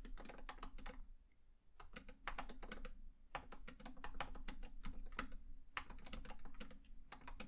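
Typing on a computer keyboard: quick runs of key clicks in bursts of one to two seconds, with brief pauses between them.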